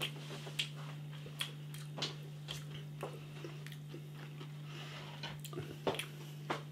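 A person chewing a crispy-coated chicken nugget with sweet curry dip: about a dozen soft, irregular mouth clicks and smacks, over a faint steady low hum.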